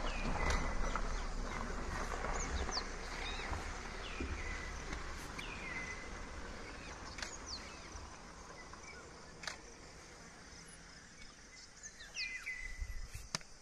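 Outdoor ambience with a bird repeatedly giving a short whistle that slides down in pitch, one every second or two. Under it is a low rumble that fades away over the first half.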